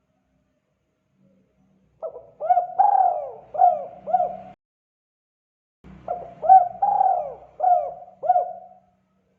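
Spotted dove (tekukur) cooing, the 'kuk 2' type of call: two phrases of about five coo notes each, the first starting about two seconds in and the second about six seconds in, with a pause between.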